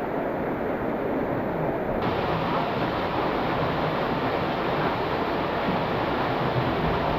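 Steady rush of flowing water in a canyon stream or waterfall, which turns brighter and hissier about two seconds in.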